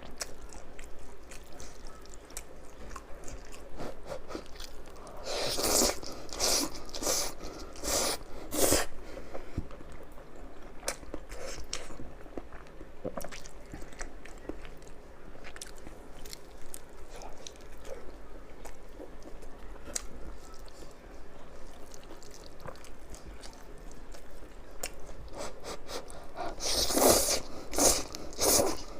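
Close-miked eating: steady chewing with small wet clicks, broken by two bouts of loud crunching bites into crisp food, one several seconds in and one near the end.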